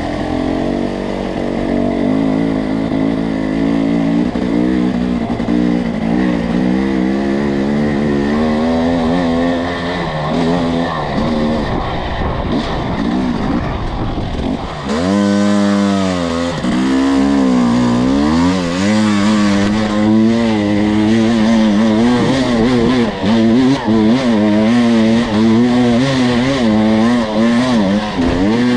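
Two-stroke enduro dirt bike engine pulling at low to middle revs on a slick trail. The revs rise and fall constantly with the throttle. About halfway through, the revs drop sharply and then climb again, and more quick rev swings follow.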